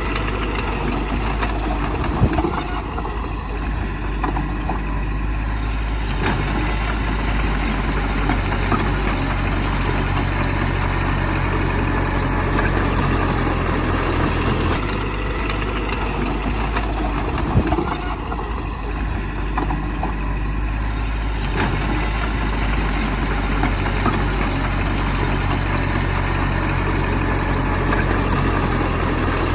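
Heavy diesel engine of earthmoving machinery running steadily, with a sharp knock twice, a few seconds in and again about two-thirds of the way through.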